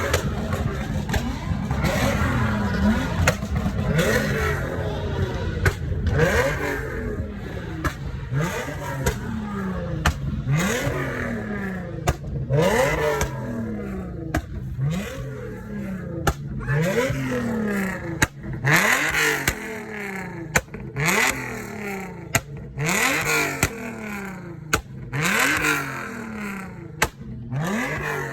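An engine revved again and again, about once a second: each blip is a quick rise in pitch that drops away, with sharp cracks from the exhaust between the revs.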